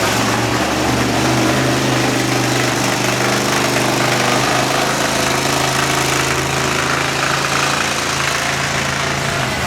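Monster truck engine idling steadily at low revs.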